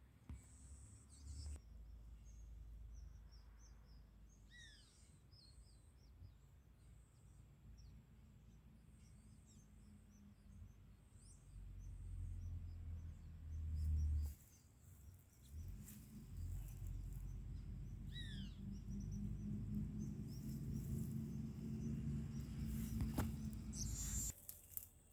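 Faint wild birds calling: scattered high chirps and two clear whistled notes that fall in pitch, about five seconds in and again past the middle. A low rumble underlies them and is the loudest part, swelling briefly before the middle and again through the second half.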